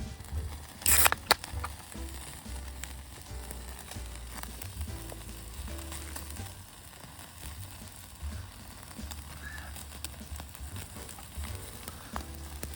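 Wood campfire crackling and sizzling, with scattered small pops and one short, loud burst of noise about a second in.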